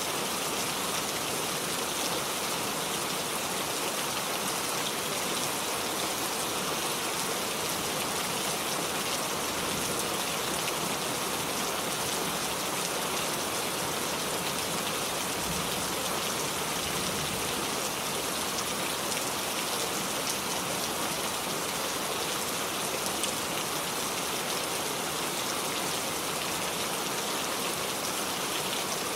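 Steady rainfall, an even hiss of drops pattering on surfaces with no let-up.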